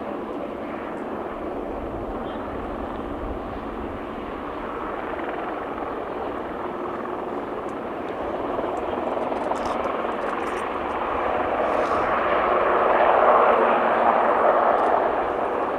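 Aircraft flying by, its engine noise steady at first and then swelling louder about two-thirds of the way through.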